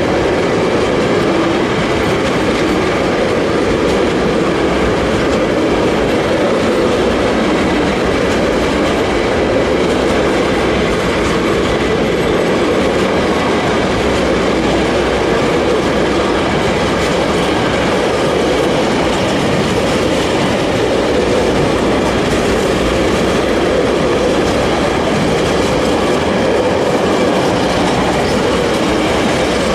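Intermodal container freight train passing close by: a steady, loud rumble of wagons and wheels on the rails that does not let up.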